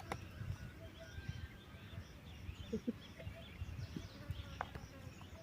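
Faint birds chirping over a low background rumble, with a few soft clicks scattered through.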